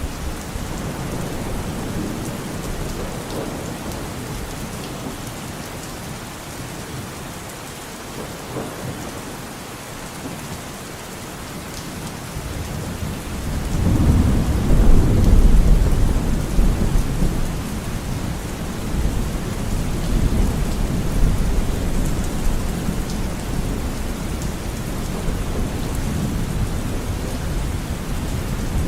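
Steady rain falling, with a deep roll of thunder that swells about halfway through and rumbles on to the end.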